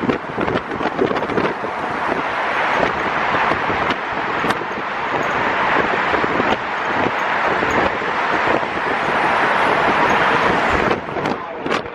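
Wind rushing over the microphone with road noise from a moving open-top tour bus, swelling as it picks up speed and easing off shortly before the end.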